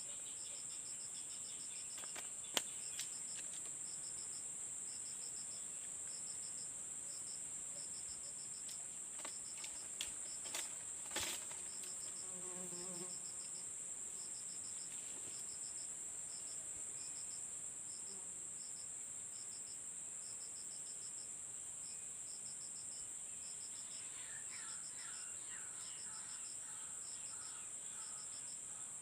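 Insects and crickets chirping: a steady high-pitched drone under short, rapid pulsed trills that repeat about once a second, with a few faint clicks.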